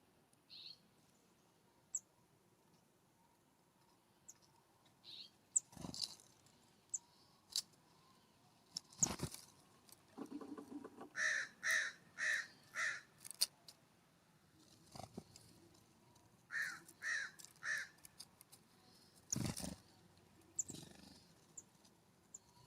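Harsh calls from a crow-family bird: one series of four evenly spaced calls, then a series of three. Scattered short high chirps from small birds and a few dull knocks come between them.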